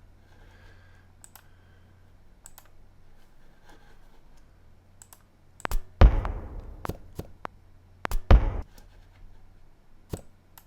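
Computer mouse clicks, scattered single clicks over a low hum, with two louder thuds about six and eight seconds in, each with a short ringing tail.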